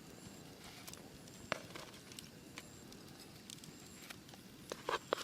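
Scattered small clicks and knocks, one about a second and a half in and a quick cluster of louder ones near the end, over a faint outdoor background.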